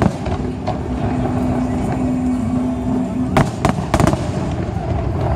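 Aerial fireworks heard from a distance: sharp shell bursts over a steady rumble of the barrage, with a quick run of several cracks a little past halfway.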